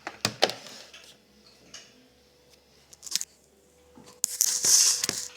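Cooking-oil bottle handled over a bowl of marinated chicken as a little oil is added: a few sharp clicks and knocks at the start and again about three seconds in, then a short hissing rush about four seconds in.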